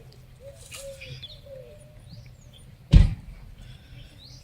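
A dove cooing in a series of short, soft, arched notes, then a single loud thump about three seconds in, over a low steady hum.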